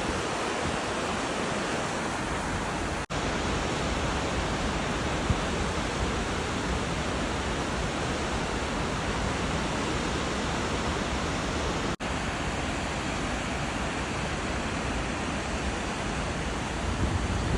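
Hogs Back Falls rushing steadily, a dense even noise of falling water. It cuts out for an instant about three seconds in and again about twelve seconds in.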